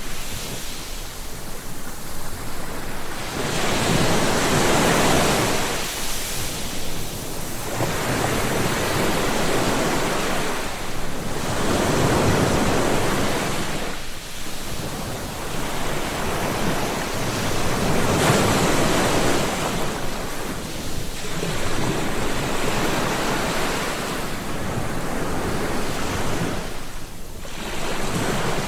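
Sea waves breaking and washing in, rising and falling in repeated surges every three seconds or so.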